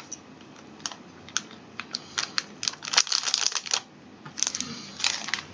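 Small plastic candy-kit powder packet being handled and emptied into a plastic tray: a run of light crinkles and clicks, thickest in two spells in the second half.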